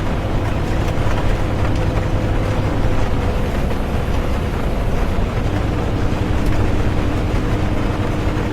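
Inside a moving bus: a steady low rumble of engine and tyres on the road, with rain on the bus and a faint hum whose pitch shifts about halfway through.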